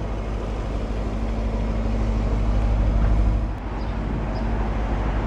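The BMW Alpina B7's twin-turbo 4.4-litre V8 idling with a steady low rumble, dipping briefly about three and a half seconds in.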